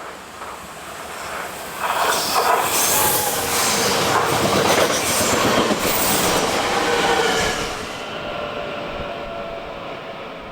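A train running into or through a station platform hall: rising rail and wheel noise that is loudest from about two to eight seconds in, then fades, with thin squealing tones near the end.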